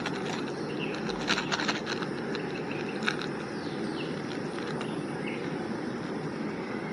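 Spoon scraping and clinking against a metal canteen cup a few times, about a second in and again near the middle, over a steady rushing noise, with faint bird chirps.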